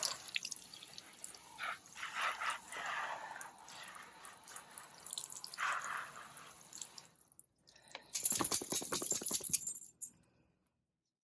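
Water splashing and dripping in patches as a dog is washed off, then a loud burst of rapid clattering about eight seconds in that lasts around two seconds.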